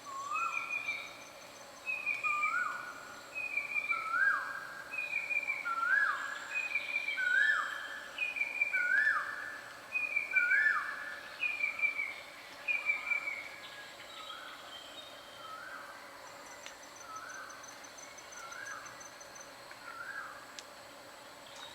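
A bird repeating a two-part call about every second and a half: a short higher note that drops in pitch, then a lower, longer note. The calls grow louder toward the middle and turn faint after about fourteen seconds, over a steady high insect whine.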